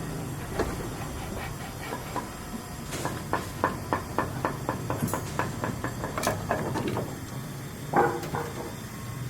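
A quick, even run of sharp knocks, about five a second for roughly four seconds, over a steady low hum, followed by one louder knock.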